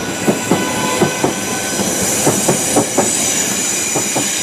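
Class 458 electric multiple unit running through the station, its wheels knocking over rail joints and pointwork in a quick irregular series. Its wheel flanges squeal high and steady against the rails through the curves, loudest in the middle.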